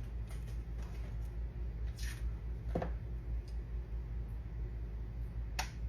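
Butter melting in a pan on the stove, with a few faint pops and clicks over a steady low hum.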